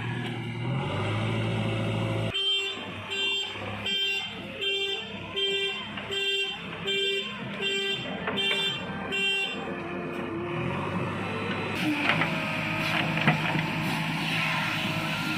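A vehicle horn sounding in a run of about ten short, evenly spaced toots, over steady engine noise.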